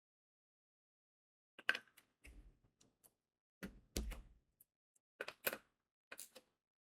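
Crystal diamond-painting drills being pressed onto the sticky canvas with an applicator pen: a scattered series of light clicks and taps, some with a soft thud. It starts about one and a half seconds in and stops shortly before the end.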